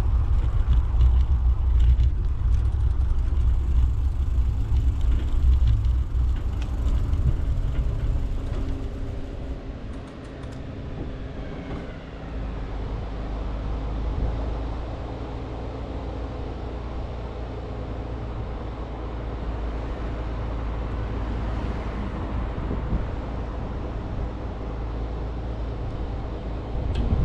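Street noise from a camera on a moving bicycle: a heavy low rumble of wind and road on the microphone for about the first nine seconds, then a quieter steady traffic hum.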